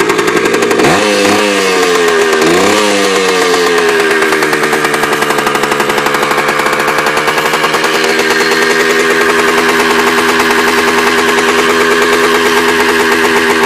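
1999 Kawasaki KE100's single-cylinder two-stroke engine running shortly after a cold start, with two quick throttle blips in the first few seconds. It then settles back to a steady, even idle.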